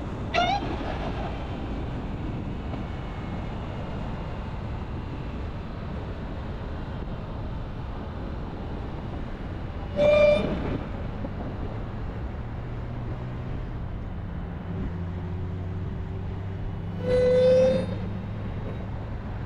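Supercharged 6.2-litre Hemi V8 of a Dodge Charger Hellcat running steadily on the move. A short rising chirp comes about half a second in, and two short, loud tooting tones come about ten seconds in and near the end.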